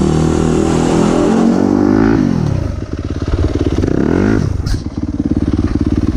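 2017 Yamaha YZ250F's 250cc four-stroke single-cylinder engine revving up, then dropping off sharply about two seconds in. It is blipped once more about four seconds in, then runs steadily at lower revs.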